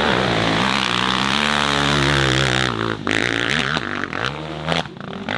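Dirt bike engine held at high revs, then dropping off about halfway through and blipping up and down, with a few sharp knocks near the end.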